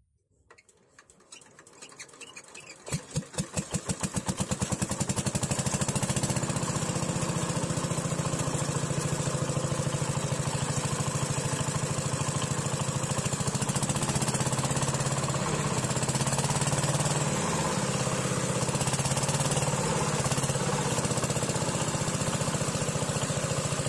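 Diesel engine of a water pump starting: faint, slow pulses quicken and grow louder over the first few seconds as it catches, then it runs steadily.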